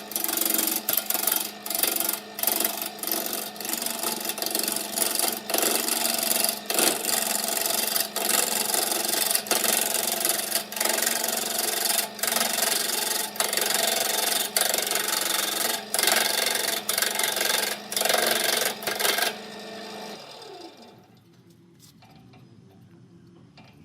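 Wood lathe running while a tool works the spinning wood-and-epoxy blank: a loud scraping, rasping cut over a steady motor hum, breaking off briefly again and again. About 19 seconds in the cutting stops and the lathe's hum falls in pitch as it slows down.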